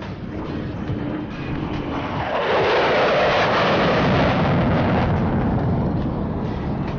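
F-35A Lightning II's single Pratt & Whitney F135 jet engine in afterburner as the fighter passes in a tight high-G turn. The roar builds to a peak a few seconds in, then eases as the jet moves away.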